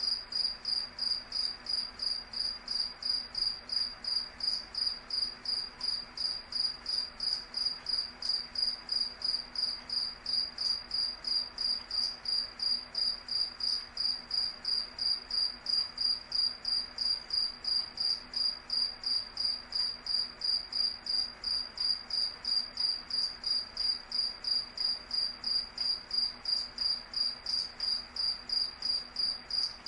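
Cricket chirping steadily: a high, clear chirp repeated evenly, about three times a second.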